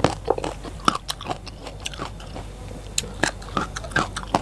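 Close-miked crunching and chewing of raw vegetables: irregular crisp bites and wet mouth clicks, several a second.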